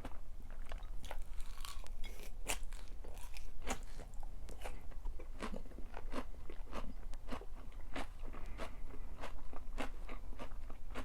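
Close-miked chewing of crunchy food: a person biting and chewing, with many crisp, irregular crunches several times a second.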